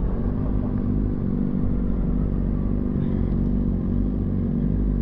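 Sport motorcycle engine running under way at fairly steady revs, with a low wind rumble.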